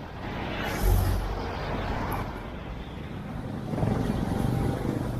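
Road traffic heard from a bicycle: a vehicle passing close by about a second in, then an engine running steadily near the end.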